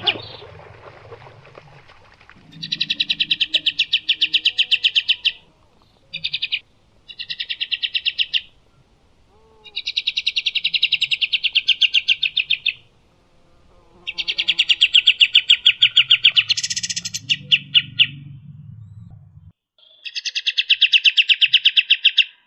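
A songbird singing a masteran song: fast, rattling trills of rapidly repeated high notes in bursts of one to four seconds with short pauses between them, six phrases in all, one of them very short.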